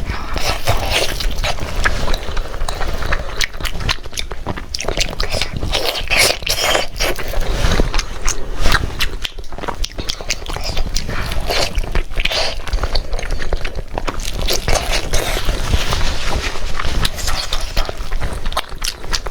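Close-up chewing and biting of pork skin, a dense run of sharp, quick mouth clicks and crunches.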